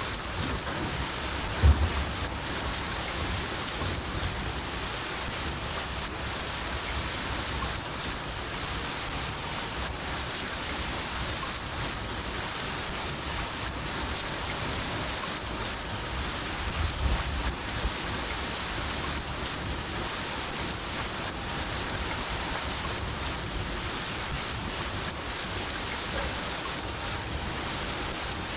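A cricket chirping steadily at about three chirps a second, pausing briefly twice, over steady rain. Low thunder rumbles about two seconds in and again about seventeen seconds in.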